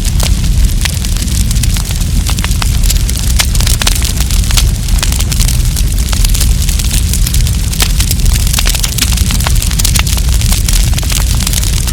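Wood campfire burning, with many sharp irregular crackles and pops from the burning wood over a steady low rumble.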